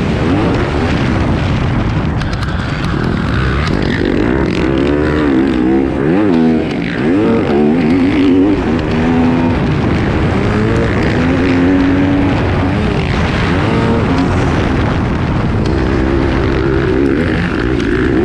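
Yamaha YZ250F four-stroke single-cylinder motocross engine under way, revving up and down over and over as the rider works the throttle, heard from on board the bike.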